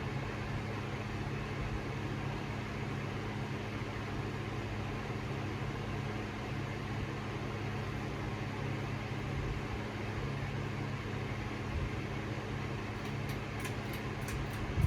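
A 52-inch Harbor Breeze Cheshire ceiling fan running on low speed, a steady motor hum with the rush of the turning blades. A few light clicks come near the end.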